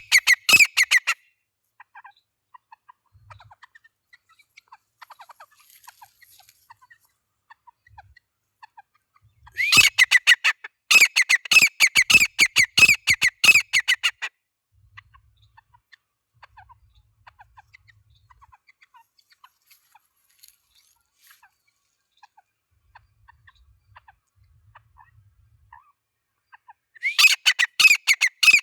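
Grey francolin (teetar) calling in loud bouts of rapidly repeated notes: a short bout at the start, a longer one of about five seconds in the middle, and another starting near the end, with only faint scattered sounds in between.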